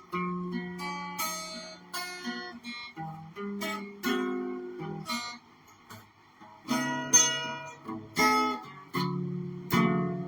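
Guitar playing the instrumental intro of a song, with plucked notes and strummed chords. The playing dips briefly about halfway through, then comes back with sharper chords.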